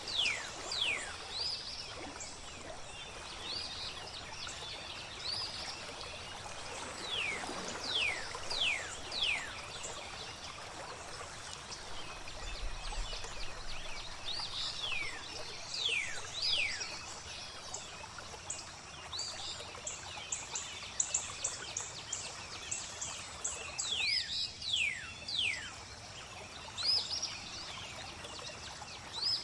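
Flowing water with songbirds calling over it. The birds give clear whistles that slide down in pitch, often two or three in quick succession, and in the middle there is a fast run of short, high notes.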